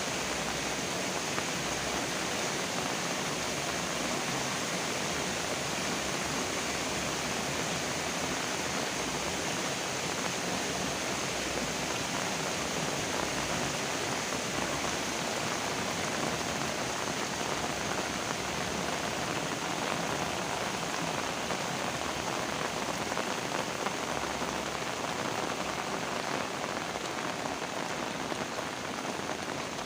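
Heavy rain falling steadily, an even rushing hiss of many drops hitting surfaces.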